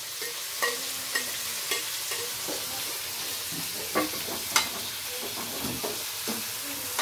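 Chopped onion and garlic frying in hot oil in a pan, a steady sizzle, with a few sharp clicks scattered through it.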